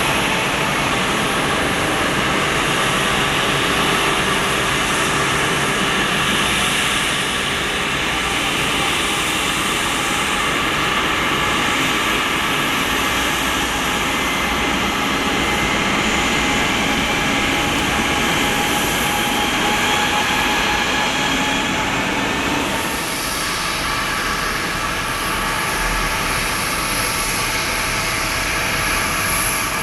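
Boeing 767-300F freighter's twin GE CF6-80C2 turbofans running at takeoff thrust: a loud, steady jet rumble with whining tones that slowly drop in pitch as the aircraft passes.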